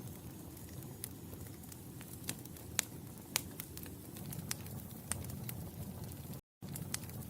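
Wood fire crackling in a fireplace: irregular sharp pops and snaps over a steady low rumble of flames, with two louder pops a little before the middle. The sound cuts out completely for a split second near the end.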